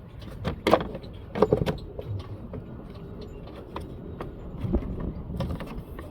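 Hard plastic knocks and rattles from the Toyota Corolla's engine air filter housing as the new filter is seated and the box is handled. The loudest knocks come about a second in, with a few lighter ones near the end.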